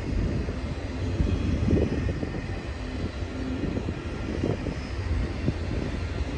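Intermodal freight train rolling past: a steady low rumble of wheels on rail, with scattered short knocks.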